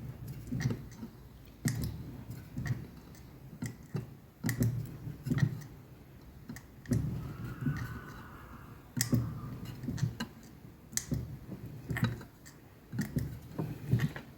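Fly press bumping cold 2 mm steel plate: a run of short, sharp metal knocks at an irregular pace of about one or two a second as the press tooling presses the veins into the leaf.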